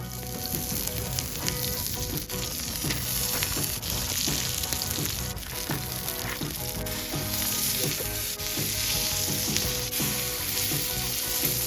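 Steak frying: a steady sizzling hiss with many small crackling pops.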